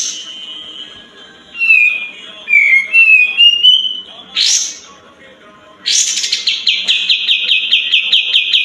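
Sooty-headed bulbul singing: sharp up-swept call notes, a run of bubbly warbled phrases, then a fast, even trill of about five notes a second starting about six seconds in.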